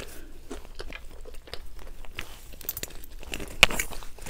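A person chewing a mouthful of food close to the microphone: soft, irregular crunches and wet mouth clicks, with one louder click near the end.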